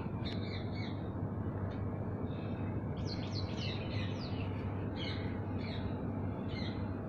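Small birds chirping in short, quick, falling notes that come in scattered clusters, over a steady low hum.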